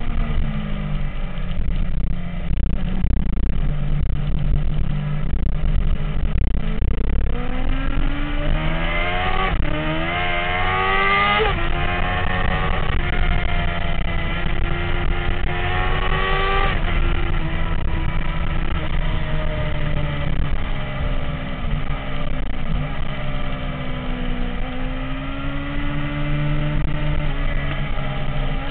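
MV Agusta F4 motorcycle's inline-four engine under way over a steady low rumble, its pitch climbing twice in a row with a short drop between, about eight and thirteen seconds in, then falling away and dipping again later.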